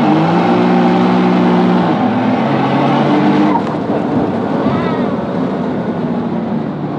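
Nissan GT-R's twin-turbo V6 at full throttle from a rolling start, heard inside the cabin, with the tyres spinning on all four wheels. The engine note holds steady, then drops at upshifts about two and three and a half seconds in.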